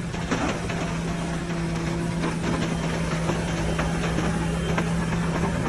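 Heavy diesel earthmoving machine running steadily, with a constant low engine drone and scattered metallic clicks and clanks.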